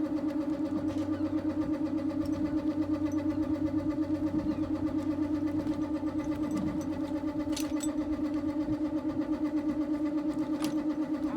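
A motor running with a steady hum and a fast, even throb; it cuts off near the end.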